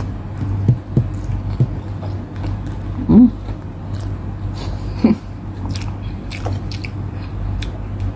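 Close-miked eating sounds: a person chewing adobo chicken wings and rice, with wet mouth clicks and smacks, over a steady low hum. Two brief louder sounds stand out, about three and five seconds in.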